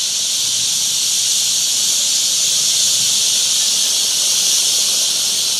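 Dense, steady high-pitched chatter of a large flock of birds, so many calling at once that it merges into a continuous loud hiss.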